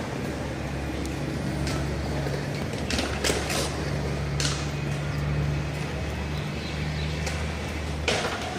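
Sharp slaps of a handball rally at irregular intervals, as a hand strikes the rubber ball and the ball hits the wall and court, with a quick run of three about three seconds in. Under them runs a steady low hum of an idling engine.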